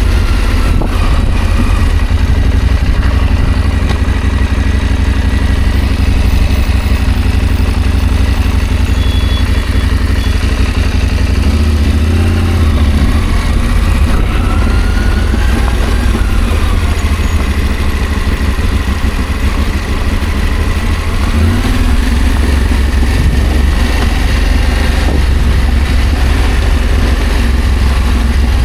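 Adventure motorcycle engine running while riding, its pitch rising and falling gently with the throttle, over a steady low rumble.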